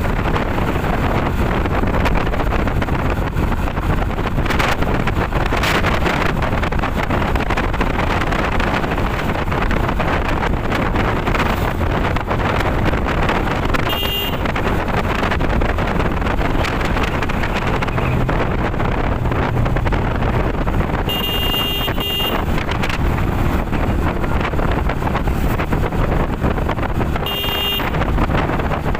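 Wind rushing over the microphone of a moving motorcycle, a steady loud noise. Short, high-pitched horn beeps sound about halfway through, twice around two-thirds of the way, and once near the end.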